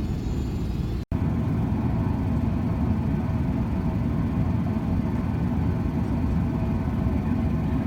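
Steady low rumble of an airliner's jet engines and airflow heard inside the passenger cabin, with a few faint steady hum tones over it. The sound cuts out for an instant about a second in.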